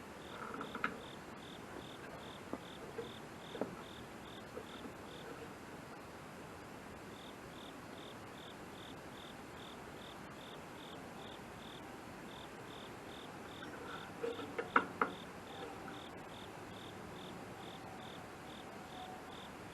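A cricket chirping, about three even high chirps a second, with a pause of a second or two before it resumes. A few light clicks and knocks come and go over it, the loudest a short cluster about fourteen to fifteen seconds in.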